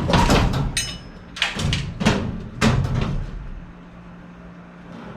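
Sheet-metal clunks and scrapes, about five of them over the first three seconds, as a furnace evaporator coil with freshly bent flanges is worked into place. After that, a low steady hum.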